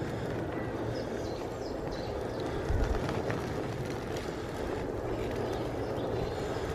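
Steady wind and road noise while riding an old BSA bicycle, with a low bump about three seconds in.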